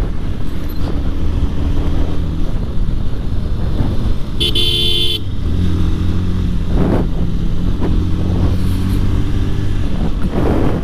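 Bajaj Pulsar 150 single-cylinder motorcycle engine running at low speed. One horn toot lasting about a second sounds about four seconds in, and the engine note shifts just after it.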